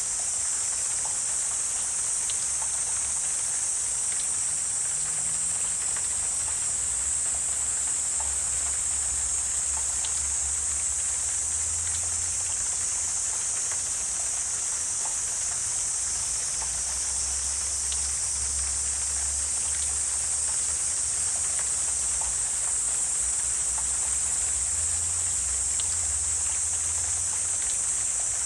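Wetland insect chorus: a steady, even high-pitched trilling drone, with scattered faint ticks and a low rumble underneath.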